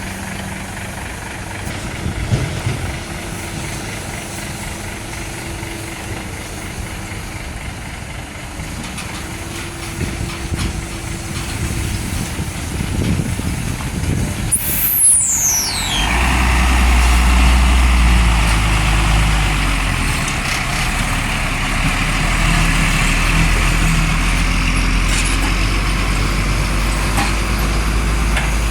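Heavy diesel truck engines running. About halfway through, a sharp high-pitched sound falls quickly in pitch, and then a truck engine close by runs louder and steadily, with a hiss over it.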